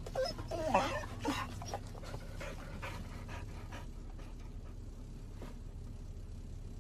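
A dog whining in short gliding notes for about the first second and a half, then panting in quick breaths that fade out about halfway through.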